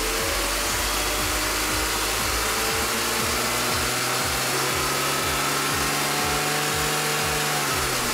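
BMW E39 528i's 2.8-litre straight-six engine revved lightly off idle and held at raised revs, then settling back down near the end. It is a check of whether the VANOS "mechanical jamming" fault code comes back after the camshaft position sensor was replaced.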